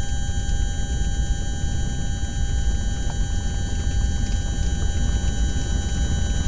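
A steady electronic drone, a low rumble with several fixed high tones held over it, unchanging throughout: a sonification of earthquake-risk data.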